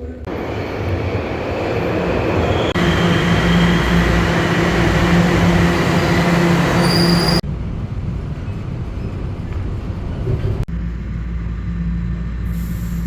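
Rail transit train running, heard from inside the car: loud rumble and rattle with a steady whine of several high tones. About seven seconds in it drops suddenly to a quieter, steady running rumble.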